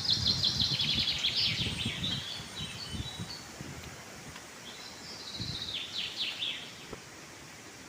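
A bird singing in two spells of rapid, repeated high chirping notes, the second starting about five seconds in, over faint outdoor background noise with a few low thumps in the first seconds.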